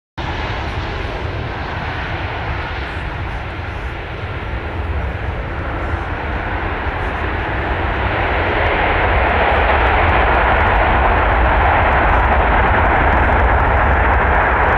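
Boeing 747 jet engines running with a loud rumbling roar that grows louder about halfway through and then holds.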